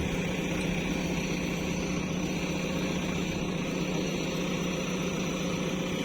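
Diesel engine of a backhoe loader or tractor running steadily at an even, idle-like speed, with a constant low hum.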